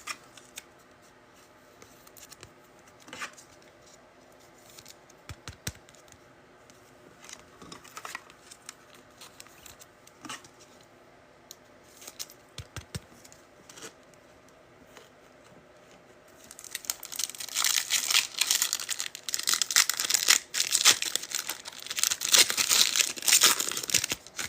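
Faint scattered clicks of trading cards being handled, then, about two-thirds of the way in, a foil card pack being torn open and crinkled for several seconds.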